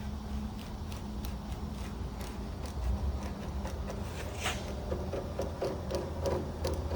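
Irregular small clicks and light knocks, like handling metal parts and tools, over a steady low hum, with one sharper click about four and a half seconds in.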